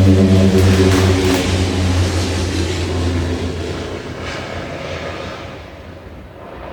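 Airplane passing over, a loud drone with steady low tones that fades away over several seconds.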